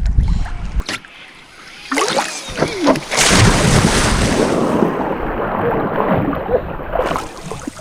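River water splashing and rushing close to the microphone, with wind buffeting it; the splashing grows loud about two seconds in.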